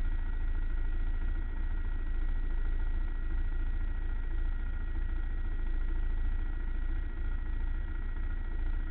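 Racing quad's engine running steadily at low revs, with a heavy low rumble.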